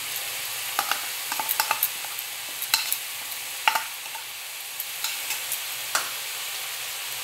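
Chopped bottle gourd (lauki) stalks and leaves frying in mustard oil in a kadhai, a steady sizzle. Over it, a steel spoon scrapes spice paste out of a steel bowl with a dozen or so short clinks and scrapes, bunched between one and two seconds in.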